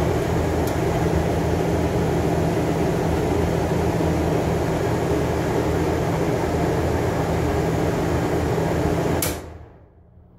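Air-conditioning unit running steadily, a rush of air over a low hum, cutting off about nine seconds in.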